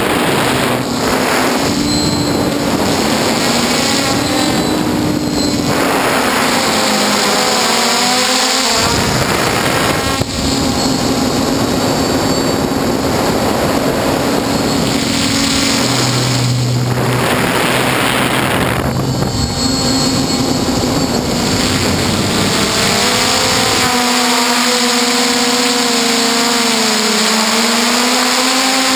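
Quadcopter motors and propellers of a DJI F450 heard from its onboard camera, a steady whirring hum whose pitch wavers up and down as the throttle changes, with rushing noise that swells and fades several times.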